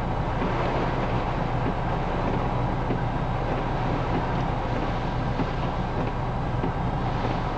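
Strong typhoon wind blowing steadily, with a constant low rumble of wind on the microphone.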